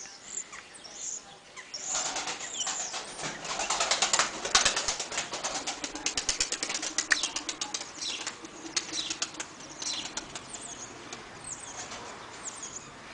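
Takla tumbler pigeons' wings flapping: a fast clatter of wingbeats that builds about two seconds in, is loudest in the middle and fades out after about eight seconds. High bird chirps sound on and off throughout.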